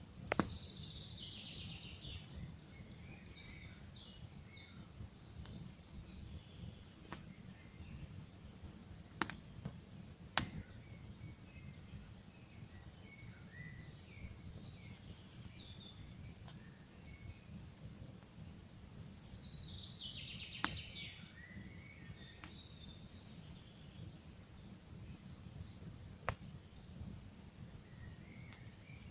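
Campfire crackling, with a handful of sharp pops over a steady low rumble of burning wood, while songbirds sing throughout. Twice, near the start and about two-thirds of the way through, a bird gives a fast trill that falls in pitch.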